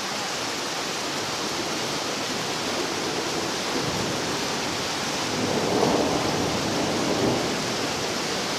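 Thunder rumbling over the steady hiss of rain during an electrical storm, swelling loudest a little past halfway through and fading a couple of seconds later.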